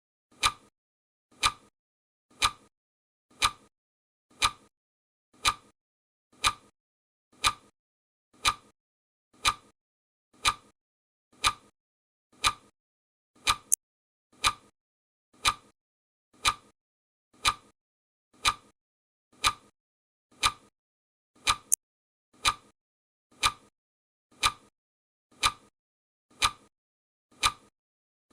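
Clock ticking steadily, one tick a second, the countdown timer's ticking track. Twice, a short, sharp extra click falls between ticks.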